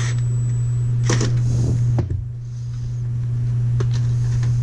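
A steady low hum with a few light clicks and knocks, dipping briefly about two seconds in.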